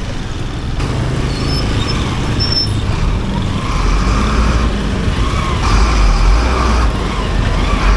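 Road traffic heard from a motorcycle in a traffic jam: engines of nearby cars, trucks and buses running, with a deep rumble that swells about halfway through.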